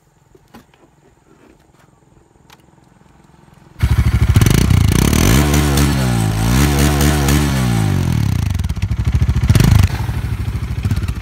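Bajaj Dominar 400 motorcycle's single-cylinder engine starting abruptly about four seconds in after a few faint clicks, then revved up and down a few times with a last sharp blip before dropping back to idle.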